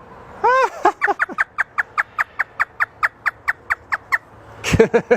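Parrot mimicking a hysterical laugh: a rapid, even run of short 'ha' notes, about five a second, lasting some three seconds, with a louder burst near the end.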